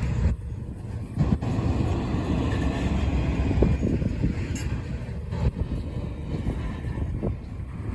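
Freight train rolling slowly past: a steady rumble of wheels on rail with irregular clunks from the cars.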